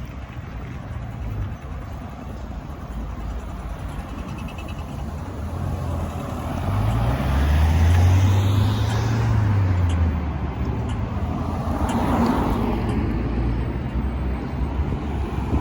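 Road traffic: motor vehicles driving past, one with a deep engine rumble that swells and is loudest about eight seconds in, then another vehicle passing about twelve seconds in.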